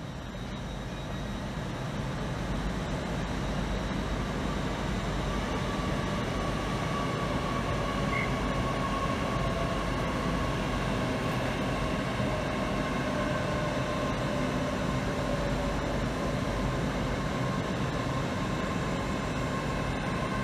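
Hitachi Class 800 intercity train running slowly into the platform as it comes in to stop. It makes a steady low rumble with a thin whine that drops slightly in pitch, and it grows louder over the first couple of seconds as it draws near.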